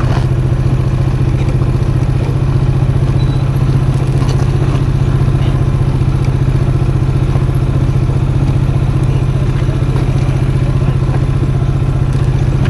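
Custom motorcycle engine running at low, even revs, with scattered clatter and knocks from the tyres over loose gravel and stones.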